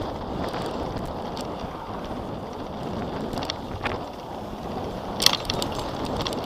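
Wind and road noise on a recumbent bicycle's camera microphone while riding, a steady low rumble with scattered clicks and rattles; a sharp click a little after five seconds in is the loudest.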